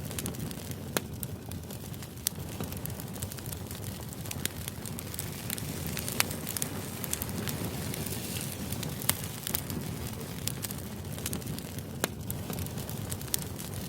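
Crackling fire ambience used as white noise: a steady low hiss with irregular sharp pops and crackles scattered through it.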